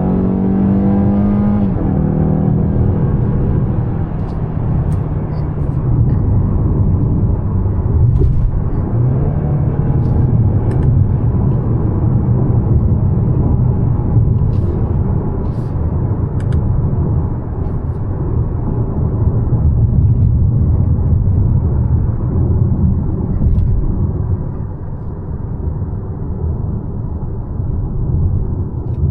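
Mazda CX-5 with a 2.5-litre naturally aspirated four-cylinder petrol engine driving on the road, heard from inside the cabin: a steady low rumble of engine and tyre noise, with the engine note rising and falling a few times.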